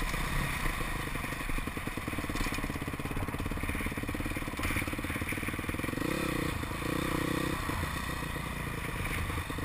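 Motocross motorcycle engine running steadily, revved up twice around six and seven seconds in, then easing off again.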